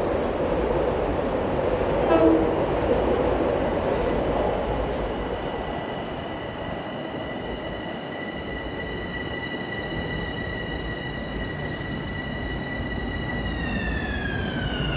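LIRR M7 electric commuter train in motion: a rumbling run of wheels on rails, with a brief louder moment about two seconds in. From about five seconds a steady high whine is heard; it holds its pitch, then slides down over the last second or so.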